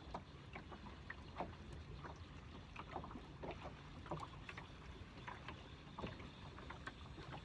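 Water lapping softly, with small irregular splashes and knocks over a low, steady background noise.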